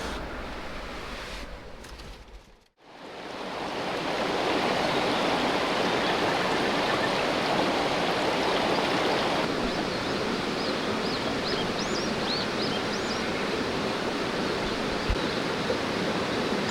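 Mountain river rushing steadily, briefly fading out and back in about three seconds in. Faint high chirps sound over it midway.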